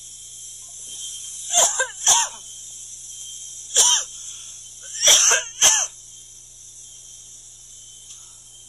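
Five short, sharp voice sounds, a pair, a single and another pair, over a steady high hiss.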